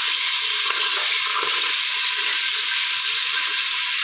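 Chopped tomatoes and ginger-garlic paste frying in hot oil in a steel pot: a steady sizzle.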